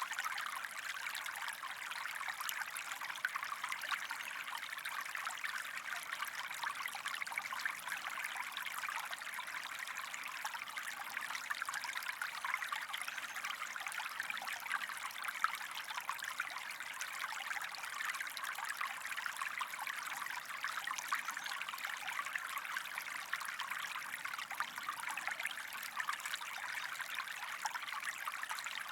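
A stream of water flowing and trickling: a steady rush of water flecked with many small splashes.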